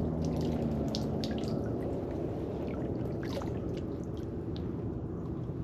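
Water dripping and splashing off a kayak paddle in irregular drips, over a low steady rumble.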